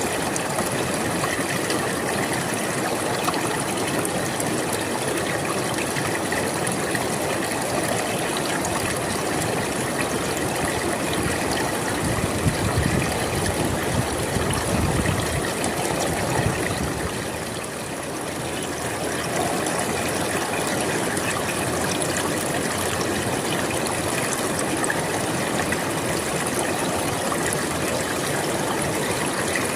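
A river flowing, a steady rushing of water, swelling a little in its low rush about halfway through and easing briefly just after.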